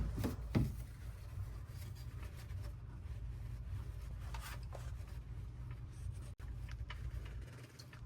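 Hands working a car's oil drain plug loose: faint rubbing and scraping with a few light ticks, over a steady low hum.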